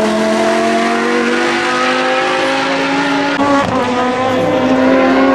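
Lamborghini Huracán Super Trofeo's V10 engine pulling hard, its note climbing steadily, with a quick gearshift about three and a half seconds in before it climbs again.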